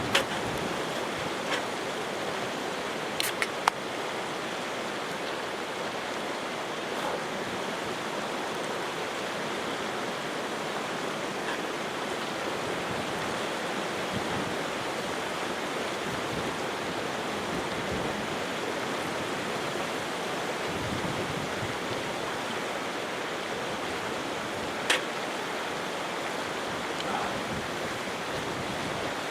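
Steady rushing of water at the waterside. A few brief sharp clicks or cracks stand out, several in the first four seconds and one about 25 seconds in.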